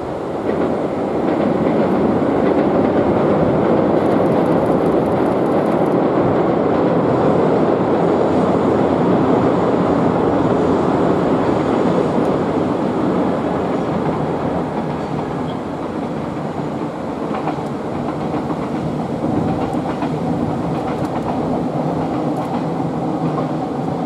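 JR Shikoku 2700 series diesel limited express train crossing a steel truss bridge and running on along the track: a steady rumble and clatter of wheels and engines. It swells about a second in and eases slowly after the midpoint.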